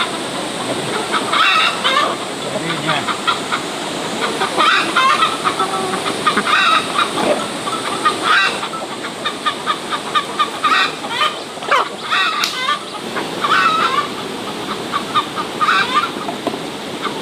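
Farmyard poultry calling again and again throughout, clucks mixed with honking squawks, over a steady hiss of rain.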